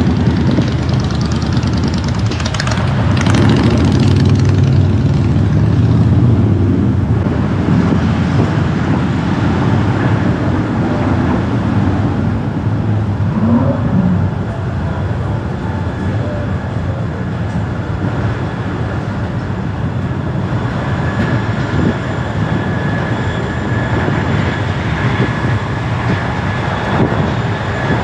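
Steady road and traffic noise from a car driving through city streets, a little louder in the first few seconds.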